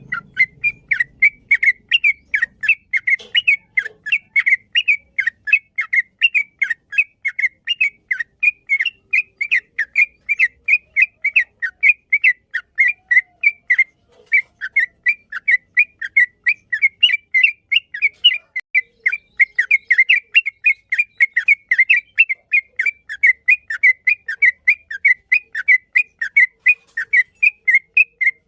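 Yellow-vented bulbul (trucukan) singing a long, fast string of short whistled notes, about three or four a second, with one brief pause about halfway through.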